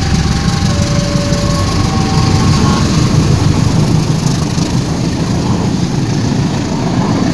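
Diesel locomotive hauling a Pertamina fuel train, its engine running with a loud, steady low rumble as the train moves off. For the first three seconds or so, thin steady tones alternate between two pitches over the rumble.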